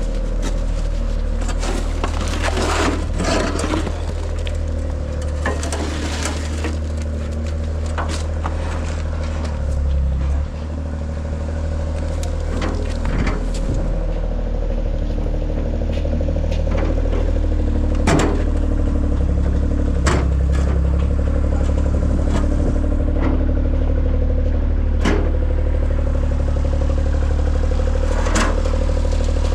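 A machine engine running steadily with a deep drone, with scattered sharp knocks, clanks and scrapes over it.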